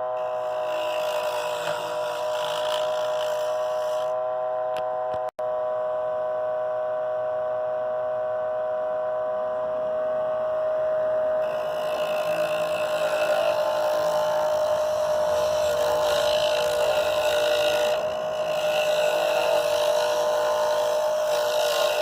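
Wood lathe running with a steady motor hum while a chisel cuts into the spinning wood blank, the scraping of the cut growing louder from about halfway. The sound cuts out for an instant about five seconds in.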